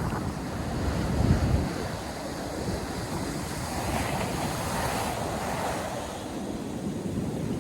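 Ocean surf breaking and washing on a sandy beach, a continuous rushing hiss that swells around four to five seconds in. Wind buffets the microphone with a low rumble about a second in.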